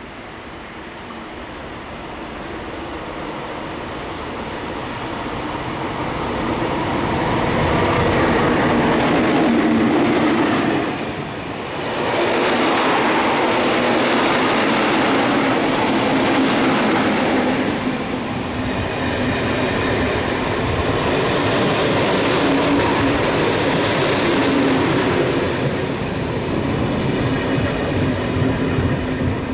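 A train approaching and passing close by on the rails, growing louder over the first eight seconds, then running steadily loud with a short dip about twelve seconds in.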